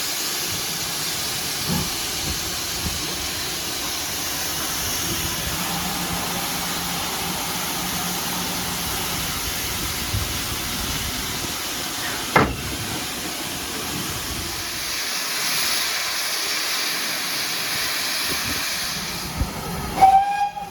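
Steam locomotive hissing steadily, with a single sharp knock partway through and the hiss growing louder for a few seconds near the end. A brief high tone sounds just before the end.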